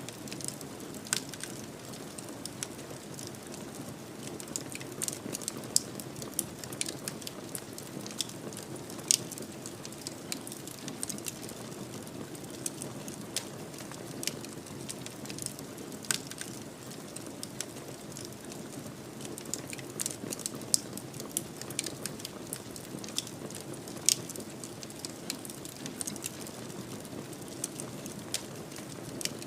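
Wood fire in a fireplace crackling: irregular sharp pops and snaps, a few louder than the rest, over a steady low rush of burning.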